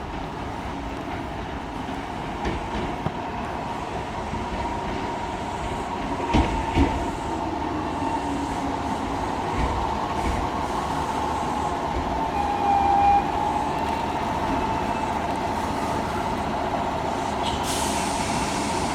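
Kintetsu five-car electric local train running into the station and braking. There is a steady running hum, two thumps about six seconds in, a brief brake squeal around twelve seconds, and a hiss of air near the end as it comes to a stop.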